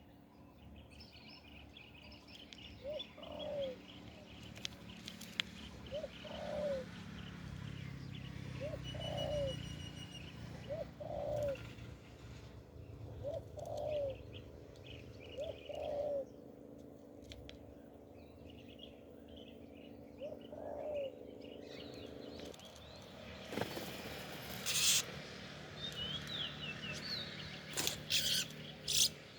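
Spotted dove cooing, a series of short low coos repeated every two seconds or so, stopping a little after two-thirds of the way through, with small birds chirping higher up. A few sharp noises near the end.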